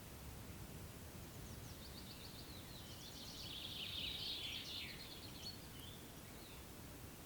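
A songbird singing a quick, chattering phrase of high notes, starting about a second and a half in and loudest near the middle, before trailing off about five seconds in. Under it runs a faint, steady low outdoor background.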